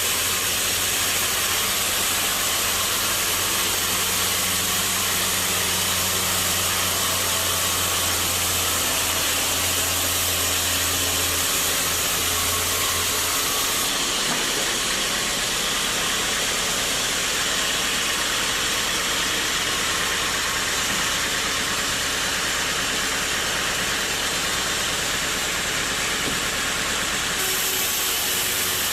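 Sawmill machinery running steadily with a constant hiss. A low engine hum drops out about halfway through.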